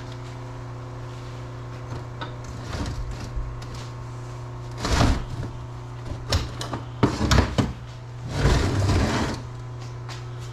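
Metal parts knocking and scraping as the piston and connecting rod are pulled out of a Wacker Neuson BS60-4S rammer's lower housing: a few clunks about halfway through and a longer slide near the end, over a steady hum.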